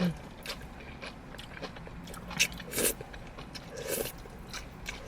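Close-up eating sounds of fried chicken: bites and chewing, with crisp crunches of the breaded skin, the loudest about two and a half to three seconds in and again near four seconds.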